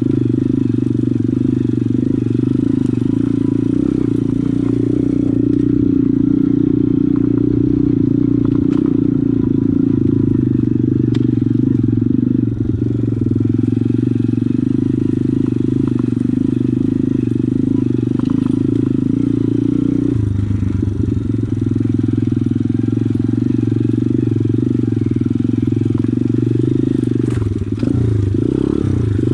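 Pit bike's single-cylinder engine running steadily under way. The note drops about two-thirds of the way through, and the revs rise and fall unevenly near the end.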